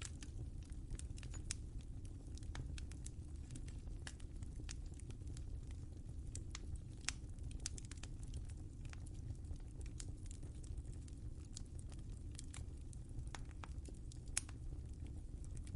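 Wood fire crackling: irregular sharp pops and snaps over a steady low rumble of the flames, with one louder pop about two thirds of the way through and another near the end.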